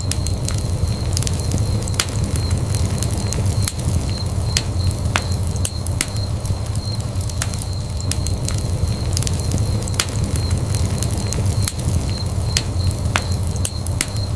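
Fireplace fire crackling, with frequent irregular sharp pops over a steady low roar of the flames.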